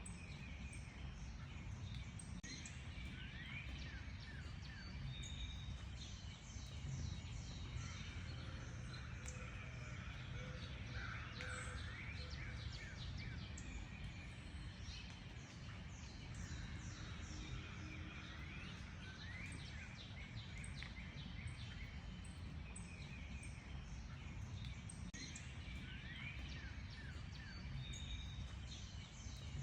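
Several birds chirping and singing, with many short, quick notes and sliding whistles overlapping, over a steady low background rumble.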